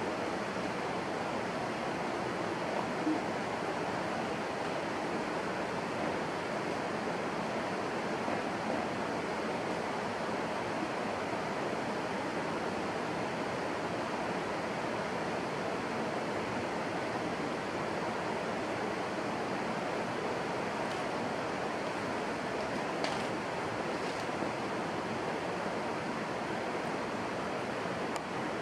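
Steady rushing noise, like flowing water, with a few faint clicks a little past two-thirds of the way through.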